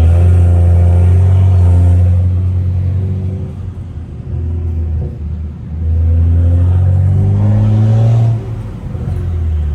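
Straight-piped BMW N55 turbocharged 3.0-litre straight-six under hard acceleration: a loud pull at the start that eases off about four seconds in, then a second pull rising in pitch from about six seconds that cuts off sharply a little after eight seconds.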